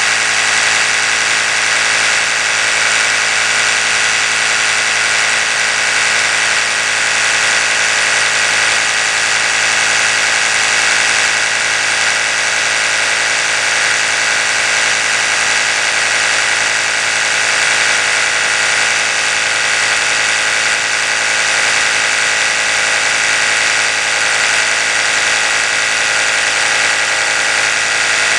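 Oral-B electric toothbrush running continuously, a steady high buzzing whine that holds one even pitch.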